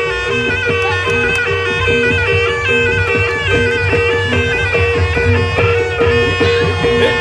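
Javanese barongan accompaniment: a reedy shawm (slompret) playing a held, stepping melody over drums and a repeating pattern of gong-chime strokes.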